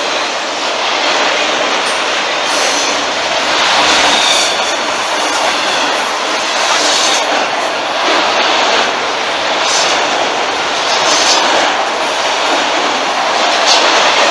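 CSX freight train of autorack cars rolling past: a steady, loud noise of steel wheels on rail, with brief high squeals from the wheels several times.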